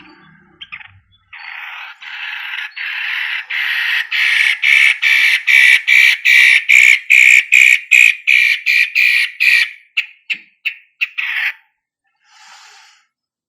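Long-tailed shrike (cendet matahari) giving a long series of harsh, rapidly repeated notes, about three a second, growing louder and then breaking off after about ten seconds, with one more short call near the end.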